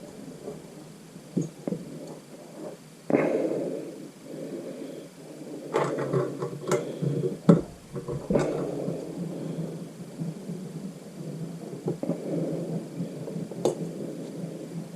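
Scattered clicks, knocks and handling noises of hand tools at work on a Suzuki GN250 cylinder head while valve spring keepers are being fitted with a spring compressor. The clicks come in a short cluster around the middle, with one more sharp click near the end.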